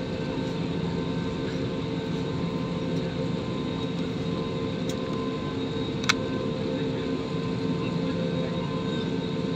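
Steady airliner cabin noise: the jet engines running low and the cabin ventilation humming, heard from inside the cabin. A single sharp click about six seconds in.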